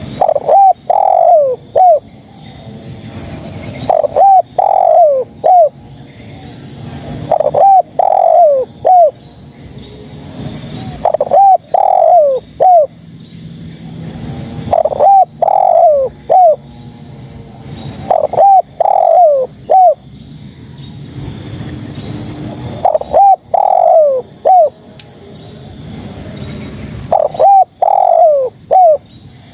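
Female spotted dove (tekukur) cooing: a loud phrase of three or four short, downward-sliding coos, repeated eight times at a steady pace of about one phrase every three to four seconds. It is the call a female gives to draw males.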